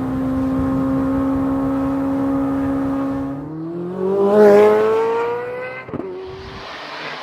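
Corvette C8 Z06's flat-plane-crank V8 exhaust holding a steady note for about three seconds, then accelerating with a rising pitch. The sound breaks off sharply near six seconds, like a gear change, and carries on quieter.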